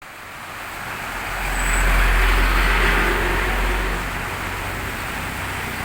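A motor vehicle passing on a wet street: a low engine rumble and tyre hiss swell over about three seconds, then fade, over a steady background hiss of rain.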